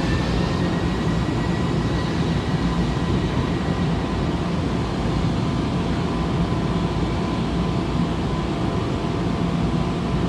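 Electric passenger train running: a steady rumble and hum with a motor whine that rises and then holds level in the first second or so.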